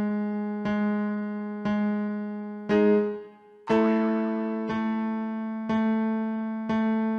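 Piano striking the same held chord about once a second as a warm-up accompaniment. A little under three seconds in it plays a louder chord and breaks off briefly, then the pulse carries on a little higher in pitch, moving the exercise up a step.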